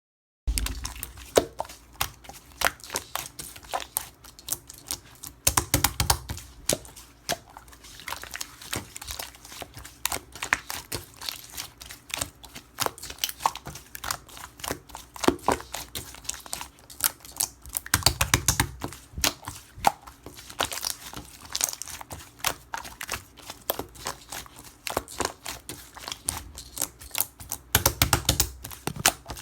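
Slime being squished and poked by hand, giving a dense run of sharp clicks and small pops, with three heavier, fuller squishing stretches spread through.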